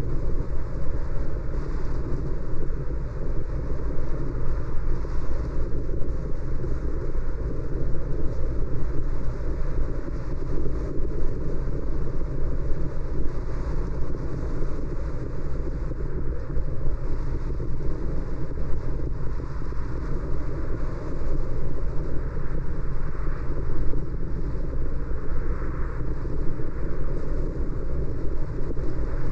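Car driving along a city road: a steady, low rumble of road and tyre noise with some wind noise.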